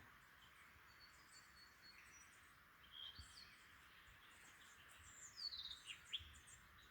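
Faint bird calls over quiet bush ambience: a few short chirps about three seconds in, then a run of quick falling whistled notes near the end.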